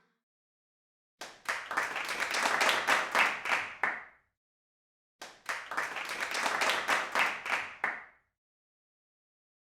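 Hand clapping in two bursts of about three seconds each, separated by a second of dead silence. The two bursts have nearly the same pattern.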